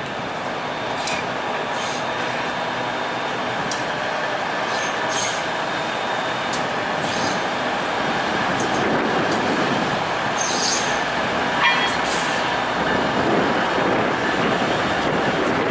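Union Pearson Express diesel multiple-unit train rolling past over the station tracks, a steady running noise that grows slightly louder, with brief high wheel squeals on and off and one louder squeal about twelve seconds in.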